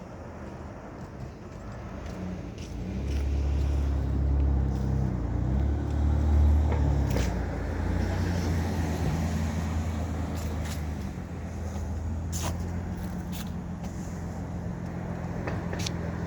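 A car engine running, growing louder about three seconds in, its pitch shifting as it changes speed, then settling into a steady hum.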